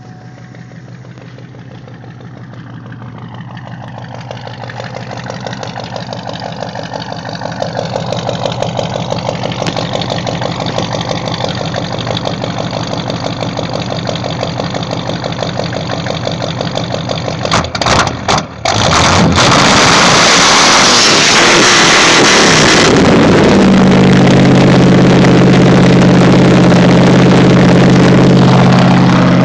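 1976 Cadillac V8 running through dual straight pipes, a steady low exhaust note that slowly grows louder. About two-thirds of the way through it breaks up briefly, then carries on much louder and steady.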